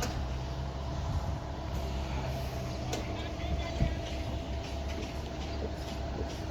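Excavator's diesel engine running steadily, a low even drone with a few light knocks from the machine about halfway through.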